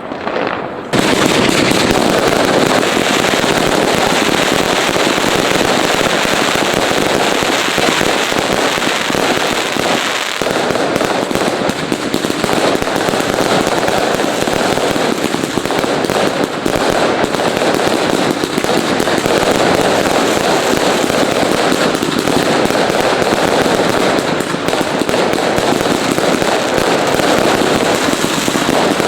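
Fireworks going off without a break: a dense, rapid stream of crackles and bangs that starts loudly about a second in.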